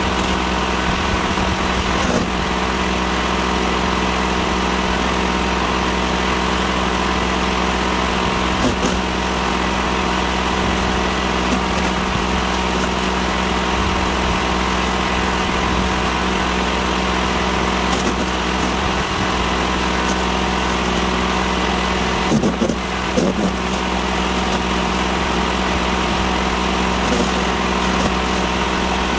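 A Sun Joe CJ601E 14-amp electric wood chipper and the generator powering it run steadily, with a few short sharp cracks now and then as branches go through.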